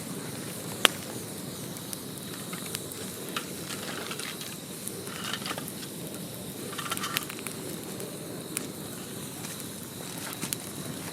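Wood campfire crackling, with scattered sharp pops over a steady low hiss; the loudest pop comes about a second in.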